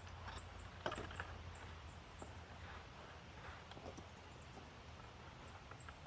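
Faint outdoor ambience: a small bird repeating short, high, downward-hooking chirps a couple of times a second, with a few light knocks and clicks about a second in.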